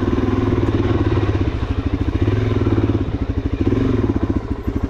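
Suzuki DR-Z400SM single-cylinder four-stroke engine running at low revs, with an even, rapid pulsing of the exhaust beats that grows more distinct about two thirds of the way through.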